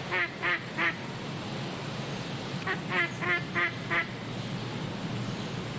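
Duck quacking in two quick runs of four or five quacks, about three a second, over a steady low background hum.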